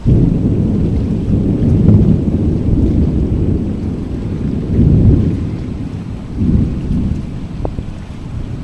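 Loud low storm rumble, swelling and fading in several surges.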